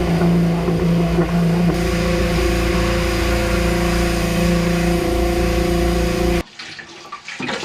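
Pressure washer running steadily: a motor drone under the hiss of the spray. It cuts off abruptly near the end.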